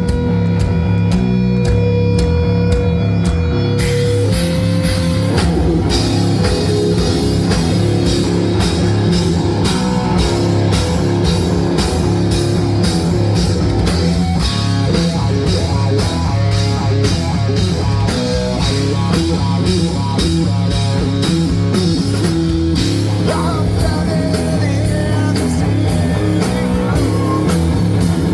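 Rock band playing live: electric guitars, bass and drum kit. The sound fills out with the full band about four seconds in.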